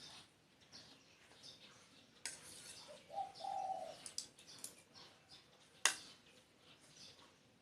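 Spotted dove cooing once, about three seconds in: a short low note and then a longer one. Small birds chirp faintly throughout, and there is a single sharp click near the end.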